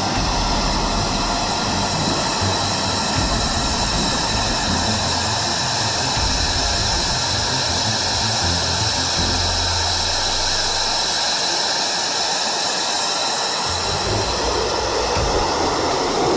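Jet aircraft engine noise: a loud, steady roar with a faint high whine running through it.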